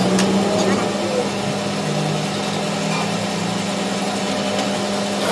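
A machine's motor running steadily with a constant low hum and a few faint clicks.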